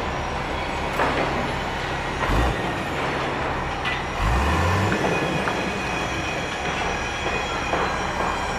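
Heavy construction machinery running steadily, a low engine hum under thin high metallic squeals, with a couple of low thumps partway through.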